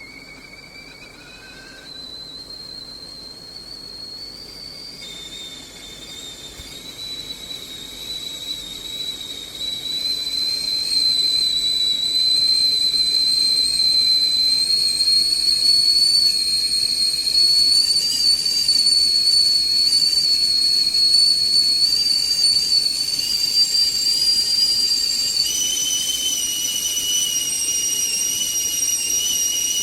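Foedo 3.2-quart stainless steel stovetop kettle whistling at the boil. A high, steady whistle swells for about the first ten seconds and then holds loud. Its pitch shifts suddenly about five seconds in and again a few seconds before the end.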